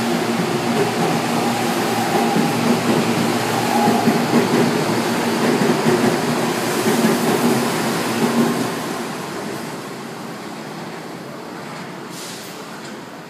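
Electric commuter train running past and away: a steady hum over the noise of the train, fading out about nine seconds in.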